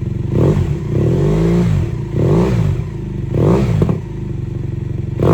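BMW F800GS parallel-twin engine through a Delkevic 9-inch oval slip-on exhaust, idling and revved in four throttle blips, the second held longer than the others, with a fifth starting near the end.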